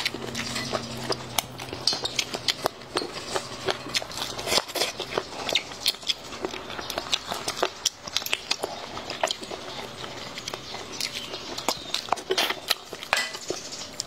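A person biting and chewing pieces of braised chicken, with many irregular sharp clicks and lip smacks. A low steady hum runs beneath the first third and stops about four and a half seconds in.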